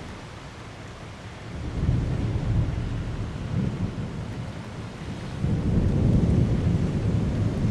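Thunder rumbling over steady heavy rain: a low roll builds about one and a half seconds in, and a second, louder roll starts about five seconds in and carries on.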